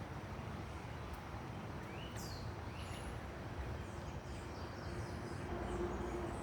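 Outdoor ambience: a steady background hiss with a few short, falling bird chirps about two seconds in. A steady low hum comes in during the second half and grows louder near the end, with a low rumble under it.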